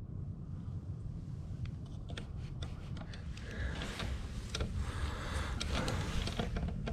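Rustling and scraping with scattered light clicks over a steady low rumble, growing busier in the second half.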